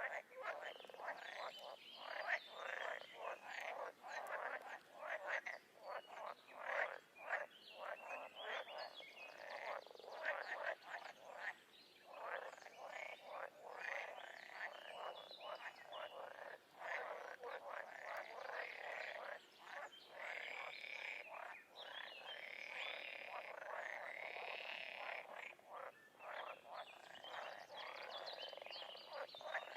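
A chorus of many frogs calling over one another: a dense, unbroken run of short pulsed croaks and trills, some overlapping into longer rattling calls.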